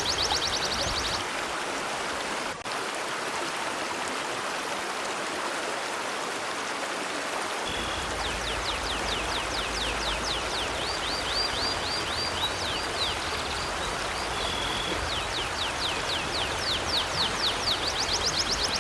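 River water flowing in a steady rushing hiss. Over it, a high, fast chirping trill repeats several times a second, briefly at the start and again from about eight seconds in to the end.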